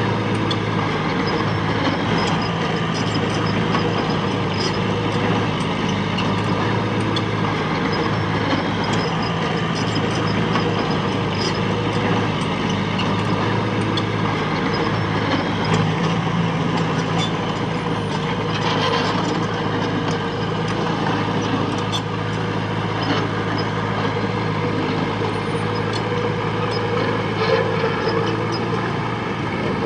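Heavy diesel engine of earthmoving machinery running steadily at an even speed, with scattered light clicks and clanks over it.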